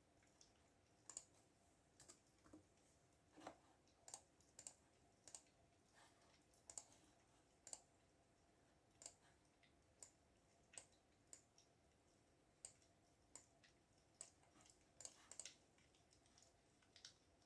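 Faint, irregular keystrokes on a computer keyboard: sharp single clicks and short clusters, about one to two a second.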